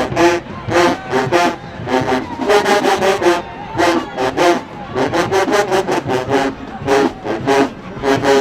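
Marching band brass and drumline playing short, punchy chords, with drum hits about three times a second.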